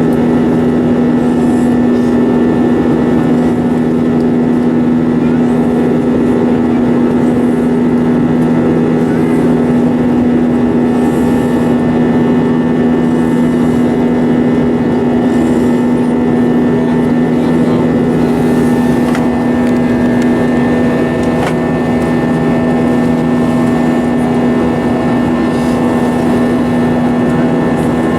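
Steady drone of an Airbus A320's jet engines and airflow heard inside the cabin, with a constant low hum tone over an even rushing noise.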